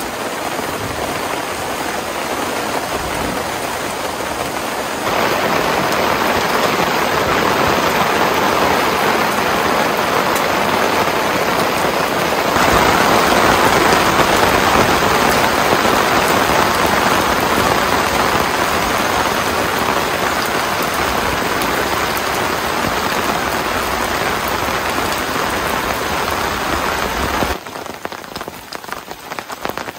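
Heavy, steady rain falling, heard from under a tarp shelter with the downpour hitting the tarp and surrounding forest. It grows louder about five seconds in and again around twelve seconds, then drops off a couple of seconds before the end.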